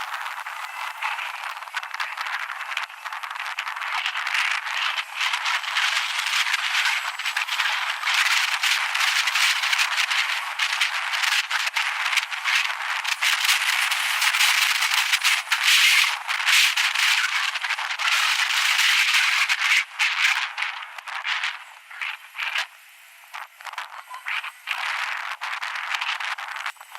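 Wind buffeting the microphone while riding, a dense crackling rush with sharp gusts, dropping away into brief patchy gusts about three-quarters of the way through.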